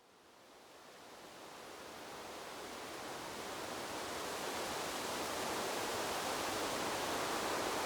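Wind blowing through a bamboo grove: a steady rustling hiss that fades in from silence over the first few seconds, then holds even.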